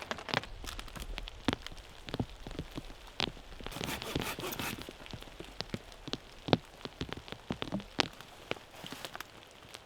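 Rain falling in woodland: heavy drops land irregularly as sharp taps over a faint steady hiss.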